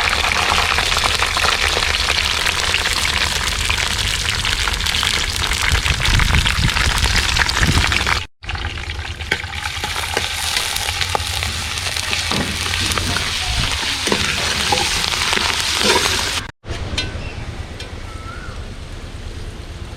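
Curry leaves and ginger frying in hot coconut oil: a steady, dense sizzle full of small crackles, with stirring in the pan. The sizzle breaks off abruptly twice and is a little quieter in the last few seconds.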